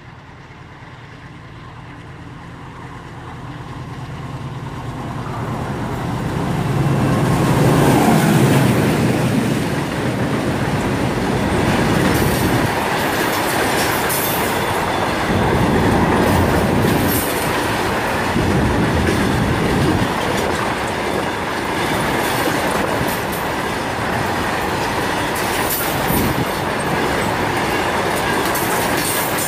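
A goods train hauled by an ALCO WDG3A diesel locomotive with a 16-cylinder ALCO 251 engine approaches at speed. The engine grows louder over the first several seconds and passes about eight seconds in. After it, a long string of loaded open wagons rushes past, with a steady rhythmic clickety-clack and rattle of wheels on the rails.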